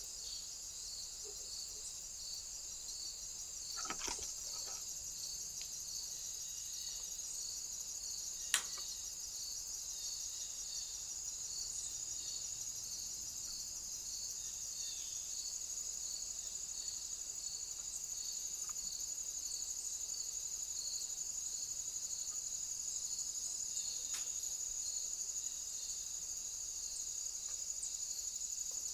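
Insects chirping outdoors: a steady high trill with a regular pulsed chirp beneath it, about two pulses a second. A few sharp clicks cut in, the loudest about eight and a half seconds in.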